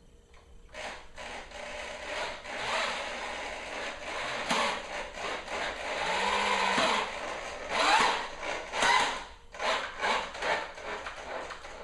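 Power drill driving screws into wood, in several uneven runs of grinding and scraping, with the motor's whine rising briefly about six seconds in.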